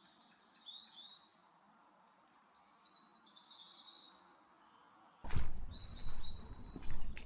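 Small songbirds chirping in short high notes over a quiet background. About five seconds in, a loud low rumbling noise with a few sharp knocks cuts in suddenly, and the chirping goes on over it.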